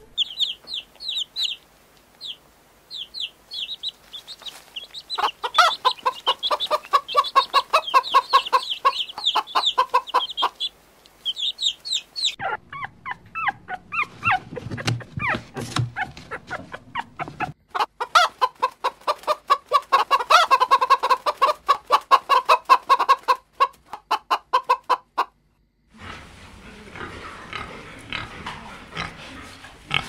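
Chickens clucking in long rapid runs, with quick, high peeping calls through the first dozen seconds. The sound changes abruptly twice, as clips are cut together, and the last few seconds are a rougher, noisier stretch.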